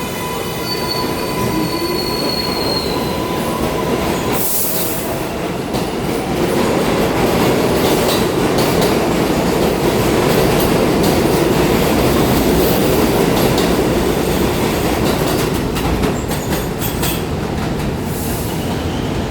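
New York City subway train running through an elevated station: steady wheel-and-rail noise with high squealing tones over the first few seconds. The noise grows louder through the middle as the cars pass.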